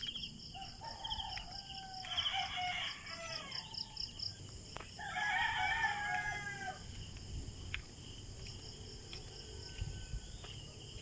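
A rooster crowing twice, each crow a long call of about two seconds, over a steady background trill of crickets.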